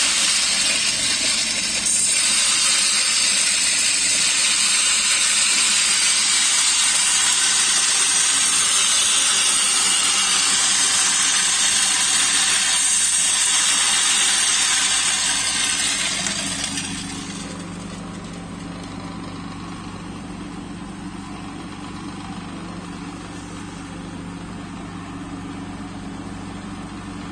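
HK-860W electric grain grinding mill with a 3 kW motor, running with a loud, steady rushing noise. About 16 seconds in the noise falls away over a second or so, leaving a quieter, steady motor hum.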